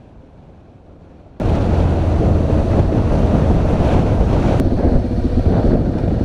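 Wind rushing loudly over the microphone of a motorcycle riding at speed, with the engine's steady drone underneath. It cuts in suddenly about a second and a half in, after a quieter start.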